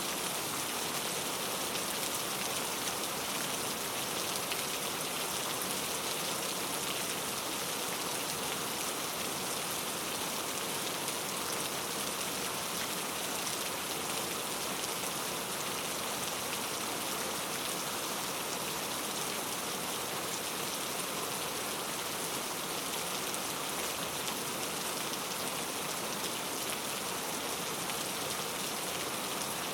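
Steady rain falling on forest foliage, a dense even hiss of drops with fine patter and no pauses.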